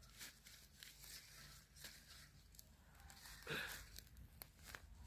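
Faint scraping and crackling of soil and roots as a sweet potato is dug and pulled out of a garden bed by hand, with scattered small clicks and one brief louder rustle about three and a half seconds in.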